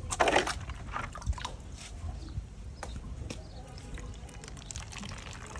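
Water splashing and trickling, with a short gush just after the start followed by scattered drips and small splashes over a low rumble.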